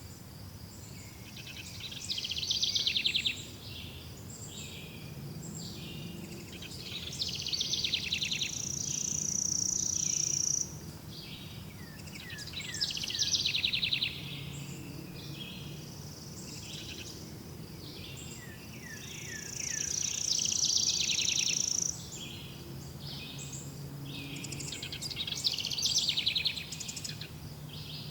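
Several songbirds singing in a chorus, with repeated trilling phrases and a few long high notes that swell and fade every few seconds, over a faint steady background hum.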